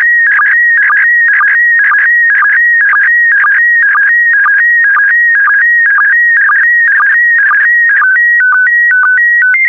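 Slow-scan TV signal in PD120 mode: a loud warbling tone sending image scan lines, with a pattern repeating about twice a second. Near the end it changes to a short run of stepped steady tones as the image transmission finishes.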